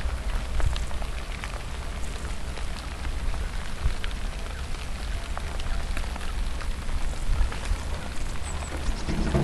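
Rain falling steadily: many small drop ticks over an even hiss, with a constant low rumble underneath.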